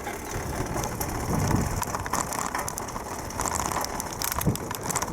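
Bicycle rattling over cobblestones: a steady clatter of many small knocks and rattles from the bike's frame and parts.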